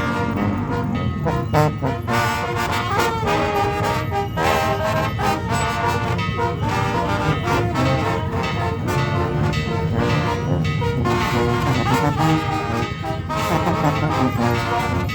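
Brass band music, trombones and trumpets carrying the tune over a continuous low bass line.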